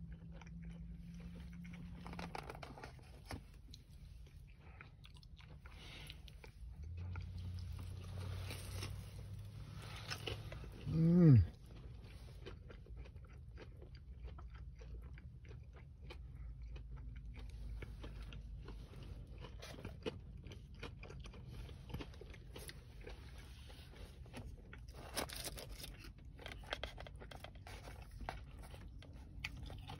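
Close-up chewing of crispy breaded fried chicken fingers: crunching and small wet mouth clicks throughout. About eleven seconds in there is a short loud voice-like sound falling in pitch.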